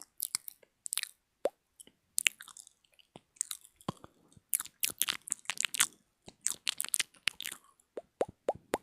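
Close-miked ASMR mouth sounds: quick wet clicks, pops and smacks in clusters, with short pauses between them.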